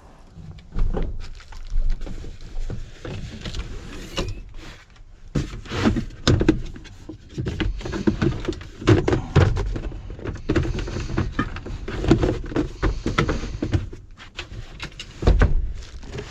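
A run of irregular knocks and thuds with some rustling, over a steady low rumble.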